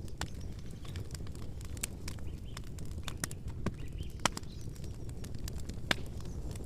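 Wood campfire crackling: irregular sharp pops and snaps over a steady low rumble of the flames, with two louder pops about four and six seconds in.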